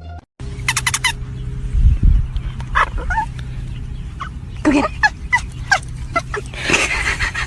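Bird-like animal calls: short rattling bursts repeated several times over a steady low hum, with a noisier burst near the end.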